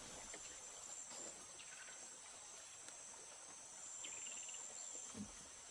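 Faint outdoor ambience dominated by a steady high-pitched insect drone, like cicadas or crickets, with a few faint short calls around the middle.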